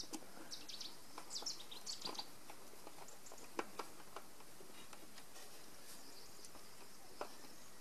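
Faint small-bird chirps and twitters, mostly in the first couple of seconds, with a few soft clicks as stranded copper cable ends are worked into a metal bus bar.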